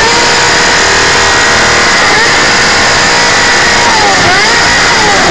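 Motorcycle engine revved hard and held at high revs, very loud, its pitch dropping briefly and climbing back up a few times in the second half.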